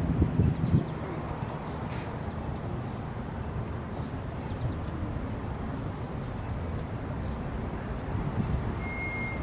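CSX mixed freight train rolling past, a steady rumble from the cars on the rails, with a heavier low throb in the first second. A short, thin high-pitched tone sounds near the end.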